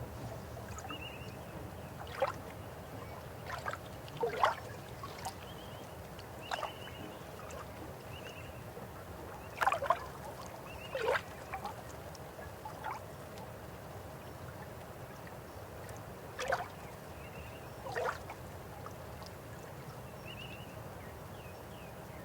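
River water flowing with a steady low rush, broken every few seconds by short gurgling plops and splashes.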